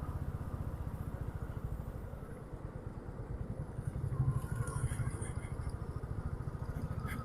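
Motorcycle running on the road at riding speed, its engine drone mixed with steady wind rumble on the microphone. A single sharp click comes near the end.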